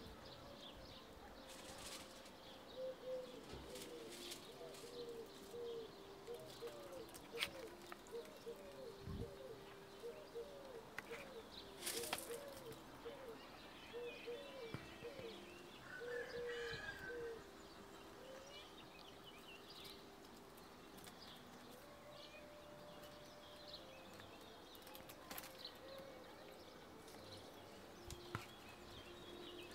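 Faint bird calls: a long run of short repeated notes, a couple a second, for about fifteen seconds, then fading to occasional calls, with a few scattered clicks and rustles.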